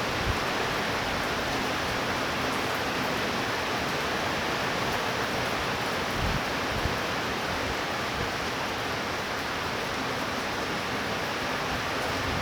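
Heavy rain falling steadily in a tropical thunderstorm, an even, unbroken hiss, with a couple of brief low bumps about six seconds in.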